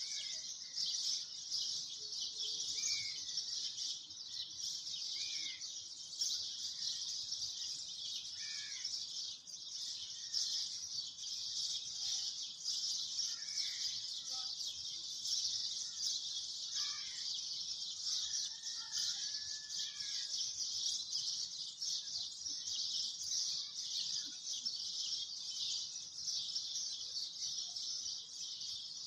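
Birds chirping in short, scattered calls every second or two over a steady high-pitched hiss.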